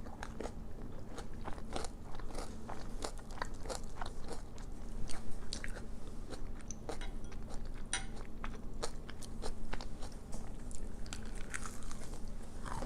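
Close, crisp crunching and chewing of crispy oven-baked onion rings, as a person bites and chews: a steady, irregular run of sharp crackles, a little louder about five seconds in and again near ten seconds.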